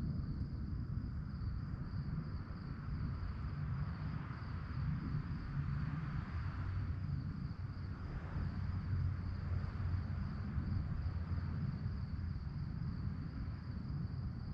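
Crickets chirping in a steady, even pulse, a single high band that never stops, over a constant low rumble.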